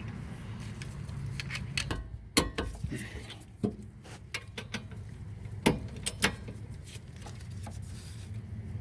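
Torque wrench ratcheting the rear brake caliper bracket bolts down to 58 ft-lb, giving sharp metallic clicks at irregular intervals, the loudest about two and a half seconds in and near the middle. A steady low hum runs underneath.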